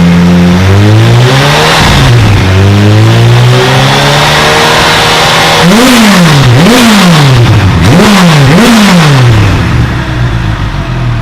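Kawasaki H2 SX SE's supercharged inline-four, fitted with a new Brocks exhaust, revved by hand from a warm idle: two slower revs, then four quick blips of the throttle, then it settles back to idle. The exhaust note is deeper with the new system.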